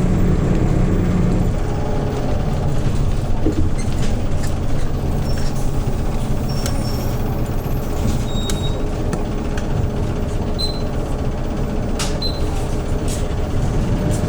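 A Hyundai New Super Aero City CNG city bus's engine running steadily, heard inside the cabin, with scattered clicks and rattles and a few short high squeaks.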